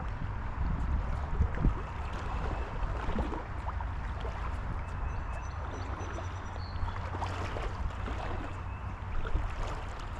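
River water gurgling and trickling around a kayak, over a steady low rumble.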